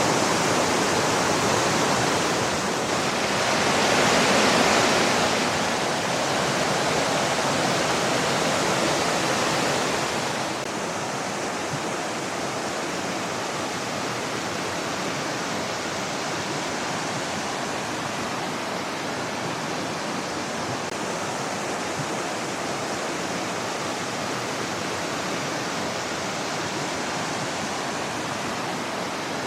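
Small woodland river tumbling over boulders in low cascades: a steady rush of water, louder for the first ten seconds or so, then dropping to a softer, even rush.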